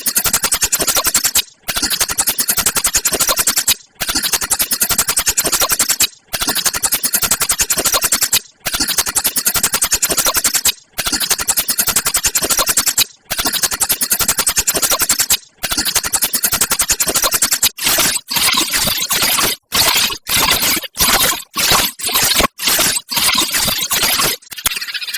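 Sparrows chirping in dense, rapid chatter, in bursts of about two seconds broken by short pauses; after about 17 seconds the bursts become shorter and come more quickly.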